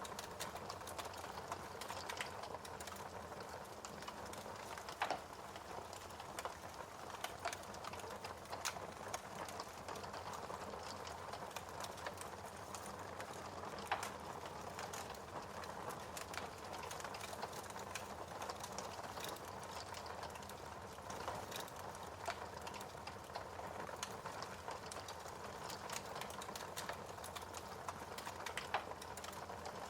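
Fireplace fire crackling: a steady hiss with many small crackles and a few sharper pops, about five seconds in, near the middle, and near the end.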